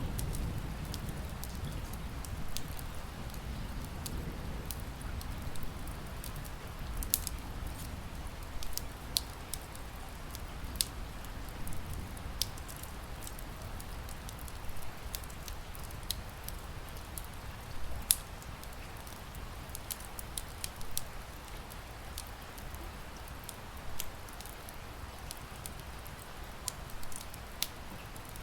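Wood fire crackling with scattered sharp pops, the loudest about two-thirds of the way through, over a steady patter of rain. A low rumble of thunder fades out in the first few seconds.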